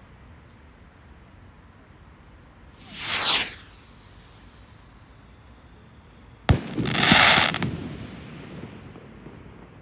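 Fireworks: a short falling whoosh about three seconds in, then a sharp bang a little after six seconds, followed by about a second of loud hissing that fades away.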